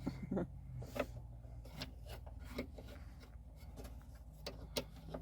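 Scattered light clicks, taps and scraping of hand tools being worked against screws in a cramped truck footwell.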